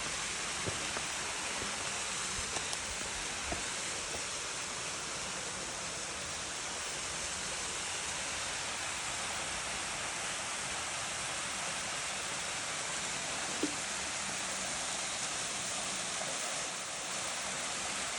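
Waterfall: a steady rush of falling water, with a few faint light taps.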